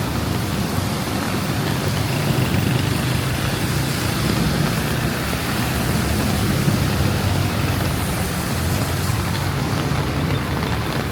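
Steady rain hiss mixed with the low rumble of vehicle engines in traffic on wet roads.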